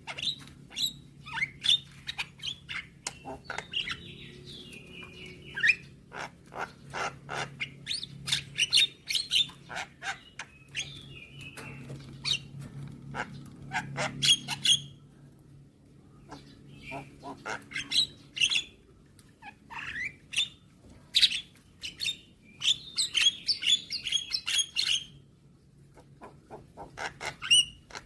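Javan myna calling and chattering: quick runs of sharp clicks mixed with short whistled notes and slurred glides, with brief pauses about halfway through and near the end. A faint steady low hum lies underneath.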